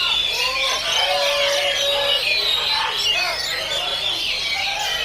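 Several oriental magpie-robins singing at once, a dense chorus of overlapping whistled, gliding and chattering phrases.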